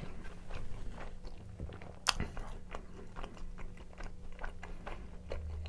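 A man chewing a mouthful of pizza with his mouth closed: soft wet smacks and small clicks, close to a clip-on microphone, with one sharper click about two seconds in.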